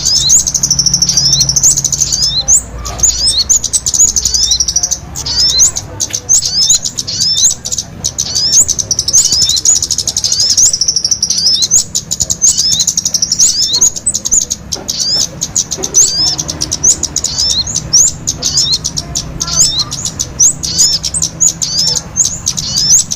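Small songbirds twittering: a dense stream of short, high, rising chirps several times a second, merging into continuous trills at times. It is a lure recording made to draw small birds in.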